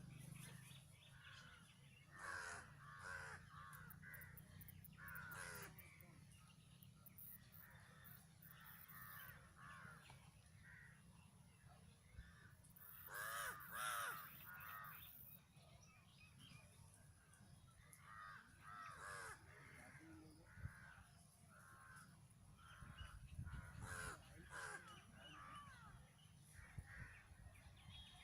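Crows cawing faintly and repeatedly, with a louder cluster of caws about halfway through.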